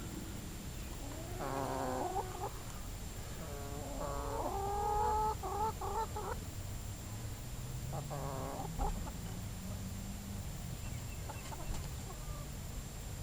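A chicken calling in three short bouts, about a second in, from about three and a half to six seconds (the loudest), and again around eight seconds. Under it runs the steady low hum of a Gibson central air-conditioner condensing unit with a Copeland scroll compressor.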